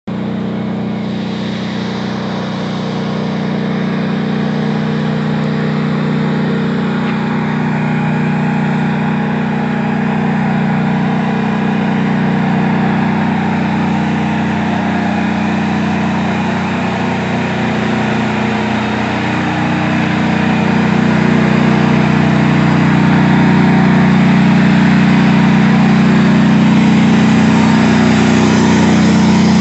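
Engine of a knocked-out tank still running steadily, unattended. It grows louder about two-thirds of the way through.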